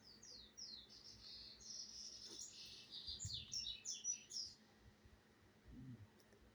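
A small bird chirping: a quick, faint run of short, high, falling notes that stops about four and a half seconds in.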